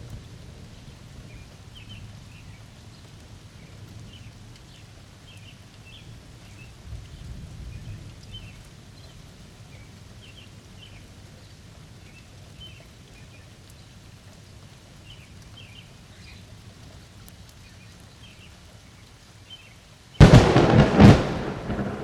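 Thunderstorm: steady rain with a low rumble of distant thunder and scattered bird chirps. About twenty seconds in comes a sudden, very loud close thunderclap, cracking twice in quick succession before rolling off.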